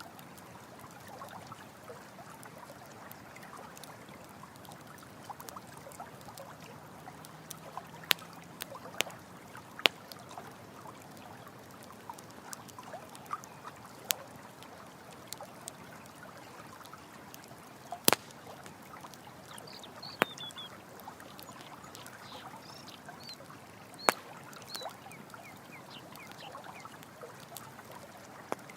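Running stream water trickling steadily, with a campfire crackling over it: about half a dozen sharp, loud pops and many smaller crackles.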